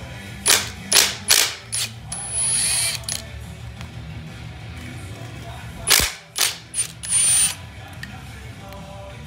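Sharp metallic clicks and knocks of hand tools and loose parts during an engine teardown, several in quick succession and then a few more later, with two short hissing bursts in between.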